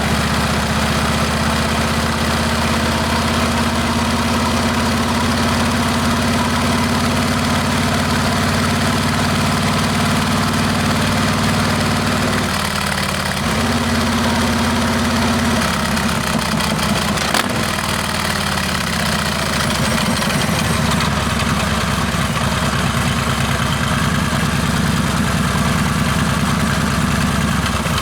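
Harley-Davidson Heritage Classic's Milwaukee-Eight V-twin running loud through a Rinehart exhaust, with a steady low note. Its pitch shifts about halfway through and again a few seconds later.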